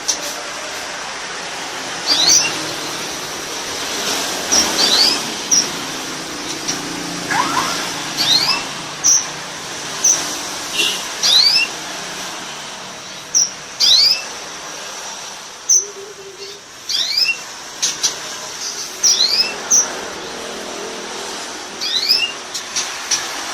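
Domestic canary singing: short, sharp chirps that fall in pitch, repeated every second or two over a steady hiss.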